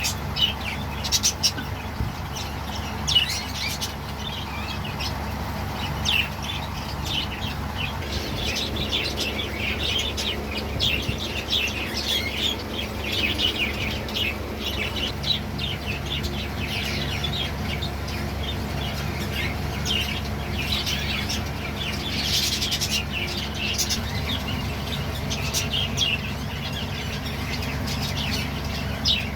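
A flock of budgerigars chirping and chattering, with many short, overlapping chirps throughout over a steady low hum.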